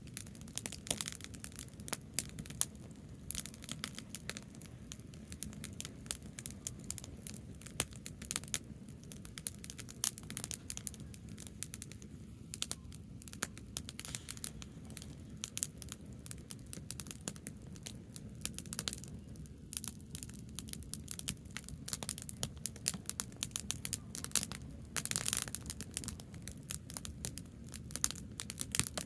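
Branch bonfire crackling and popping, with dense irregular snaps over a low steady rumble.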